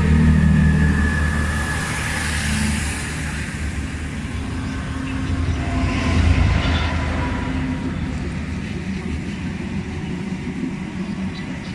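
Chiltern Railways diesel multiple unit pulling out of the platform, its diesel engines running with a low rumble that fades as the train draws away.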